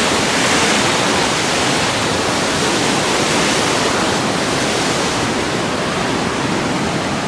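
Fast water gushing over rocks below a waterfall: a loud, steady rushing.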